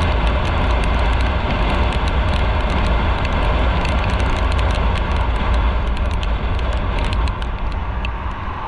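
A motorcycle running at road speed, with wind rushing over the microphone as a heavy low rumble and occasional faint ticks. The noise eases a little about seven seconds in.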